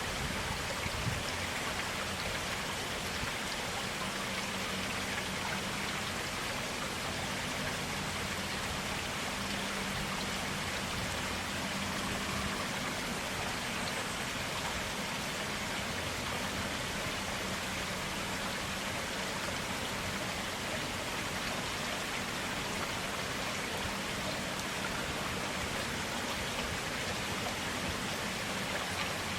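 Clear stream water flowing steadily, an even, unbroken rushing and splashing.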